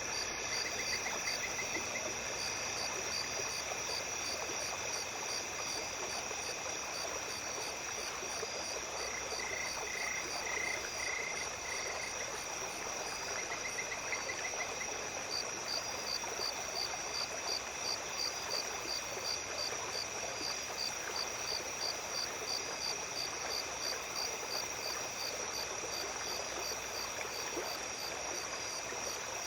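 A small stream running steadily at night, with insects calling over it: a constant high trill and, from about halfway, an even pulsing chirp about two or three times a second. A few short runs of lower repeated call notes come near the start and in the middle.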